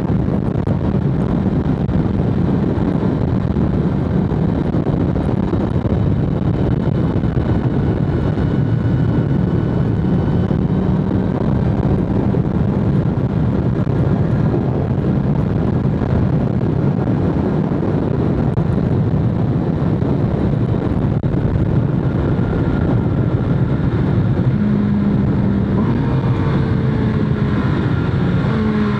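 BMW S1000RR inline-four sport bike engine running at a steady cruise under a rush of wind. Near the end the engine note shifts in pitch.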